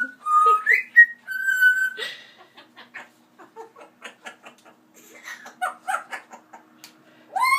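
Pet parrot whistling and chattering: a few clear whistled notes in the first two seconds, then a run of soft clicks and short chirps, and a loud, arching whistled call near the end.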